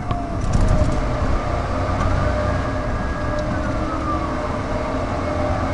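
A police siren slowly wailing, rising to a held high note and then falling away, over a steady low rumble of traffic.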